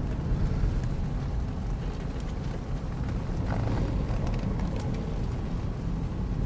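A steady low rumble of a vehicle's engine and tyres on a snowy road, heard from inside the cabin, with a few faint clicks.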